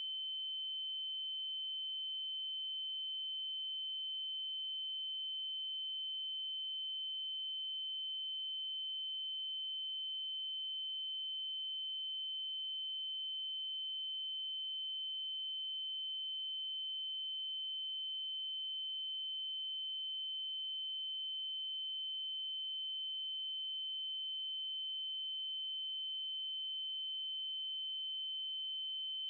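Continuous 3072 Hz triangle-wave test tone: a steady high-pitched pure-sounding tone that does not change.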